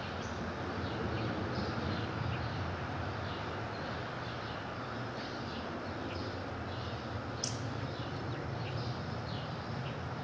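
Backyard birds chirping: many short high chirps scattered throughout, with one sharp, louder note sliding down in pitch about seven and a half seconds in, over a steady background noise with a low rumble.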